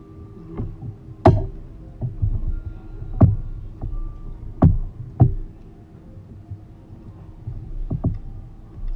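Utensil knocking and clinking against a bowl about seven times at irregular intervals, over a low steady hum.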